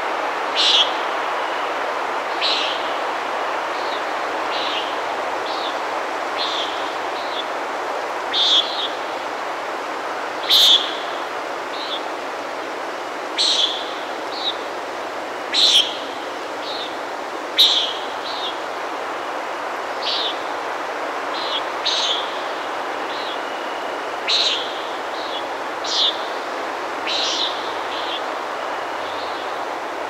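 Small birds giving short, sharp, high chirps, one every second or so, over a steady rushing background noise.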